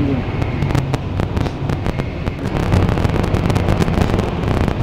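Shinkansen bullet train in motion, heard from inside a carriage: a steady low rumble with a dense scatter of small clicks and rattles.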